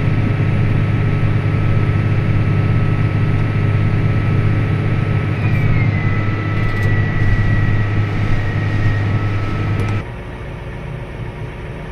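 Combine harvester running: a steady low hum with a thin steady tone, and a faint high whine that slides down in pitch midway. About ten seconds in the sound drops to a noticeably quieter level.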